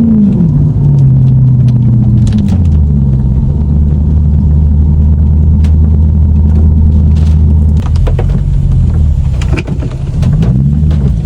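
Lexus car engine: the revs drop twice in the first few seconds, then it runs steadily at low revs before picking up again near the end. Short sharp clicks are scattered through it.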